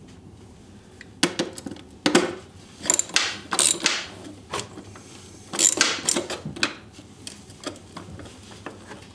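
Hand tool clicking and metal clinking in three short bursts as the two Torx T30 screws holding the snowmobile's bottom plate are undone.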